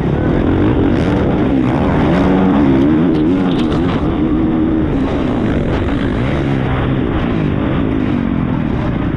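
A four-stroke MXGP motocross bike's engine revving up and down through the gears as it is raced, heard up close from the bike with wind noise over it.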